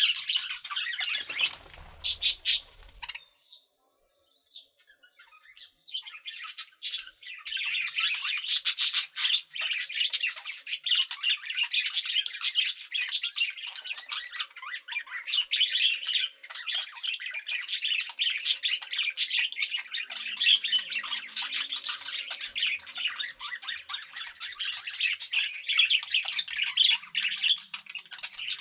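A group of budgerigars chattering and chirping in a dense, continuous stream of short high-pitched notes, with a pause of a couple of seconds a few seconds in.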